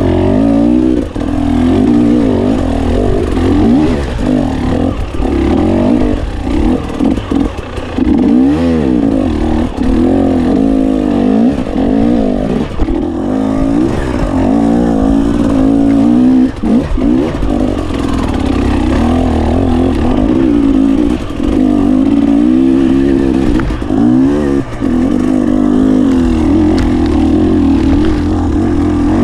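GasGas 300 two-stroke enduro motorcycle engine being ridden hard, its pitch rising and falling over and over with the throttle, with brief drops in level as the throttle is rolled off.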